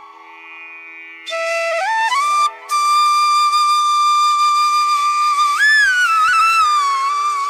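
Background flute music: a solo flute melody of long held notes with sliding pitch bends over a soft steady drone. It comes in after a quiet first second and breaks off briefly about a third of the way through.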